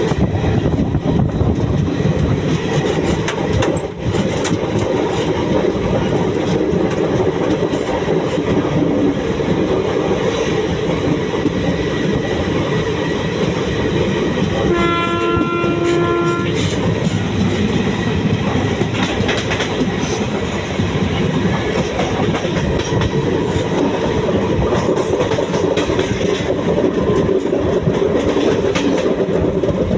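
A train running on the rails with a steady rumble and clatter of wheels. About halfway through, a train horn sounds one steady blast lasting about two seconds.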